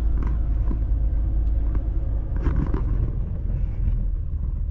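Steady low engine and road rumble inside the cabin of a 1989 Chevy G20 van under way, with a few faint clicks and rattles.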